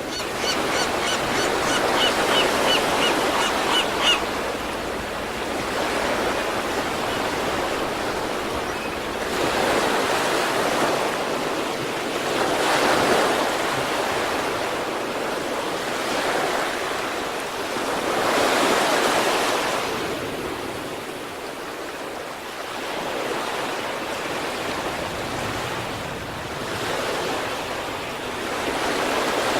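Sea waves breaking and washing up the shore, the surf swelling and falling back every several seconds over a continuous wash.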